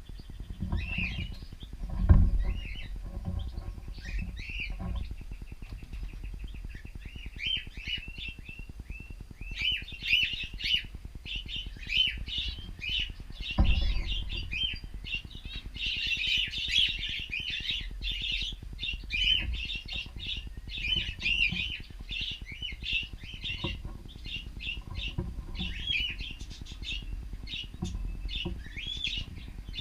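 Cockatiels chirping and calling, many short overlapping chirps that get busier after about ten seconds, over a low rumble. A low thump comes about two seconds in and another near the middle.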